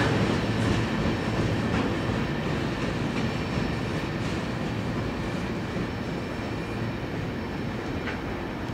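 Freight train boxcars rolling slowly past on steel wheels: a steady low rumble with a few faint clicks from the wheels, gradually getting quieter as the cars move away.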